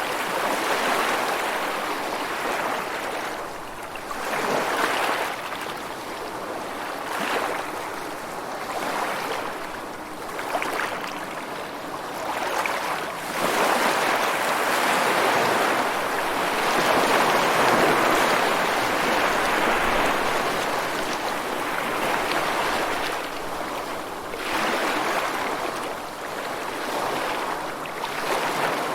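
Rushing water noise, with no music or tones, swelling and easing every few seconds.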